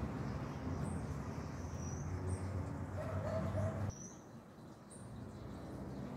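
Small birds chirping: short, high calls every second or so, over a low steady rumble that drops away about four seconds in.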